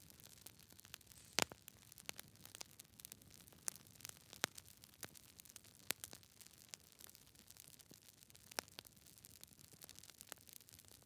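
Wood fire in a fireplace crackling: a faint steady hiss with irregular sharp pops from the burning logs, one louder pop about a second and a half in.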